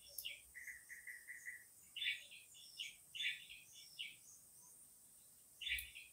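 Faint small birds chirping in short, irregular clusters, with a run of about six quick, even notes about a second in.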